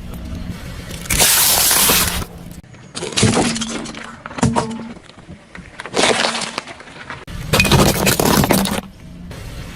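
Objects crushed under a car's tyres: a run of about five loud crashes, each lasting up to a second, over the low hum of the car.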